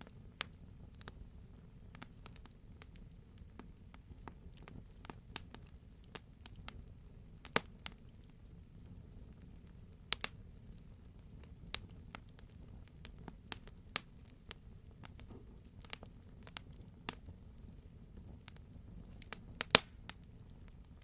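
Campfire crackling: irregular sharp pops and snaps of burning wood, a few stronger pops standing out, over a steady low rumble of the burning fire.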